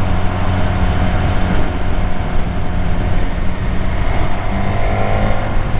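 BMW S1000R inline-four engine running steadily under way, with wind and road noise over it; a higher engine tone comes in about four seconds in.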